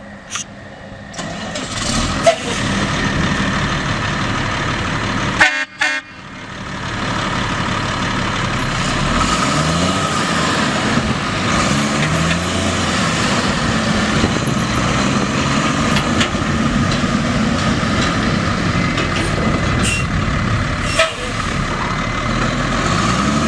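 Cummins L10 diesel engine of a 1995 Ford L9000 truck running steadily, its revs rising and falling a few times. About five and a half seconds in there is a short horn-like toot while the engine sound briefly drops out.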